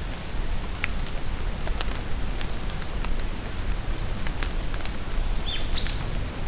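Steady rain falling in a forest, with sharp ticks of individual drops. Songbirds give a few short, high chirps midway, and a quick rising whistle near the end.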